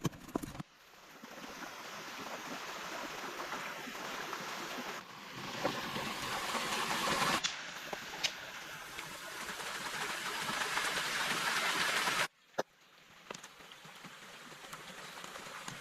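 Running water of a stream, a steady rushing that changes level abruptly several times, with a few sharp clicks.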